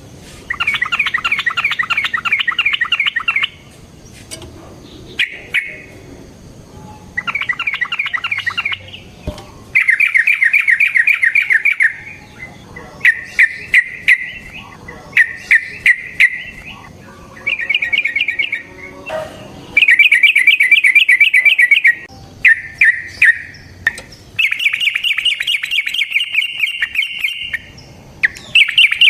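Yellow-vented bulbul singing in long bouts of rapid chattering trills, about a dozen phrases of one to three seconds each with short pauses between them. This is a lure song for drawing out other bulbuls.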